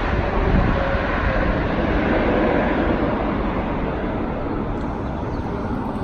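Steady jet noise of a Boeing 777-300ER with General Electric GE90 engines during its landing, easing off slightly in the second half.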